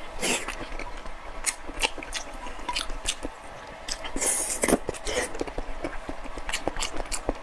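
Close-miked eating sounds: a person chewing and biting food, with many sharp, irregular wet mouth clicks and a brief hissing burst about four seconds in.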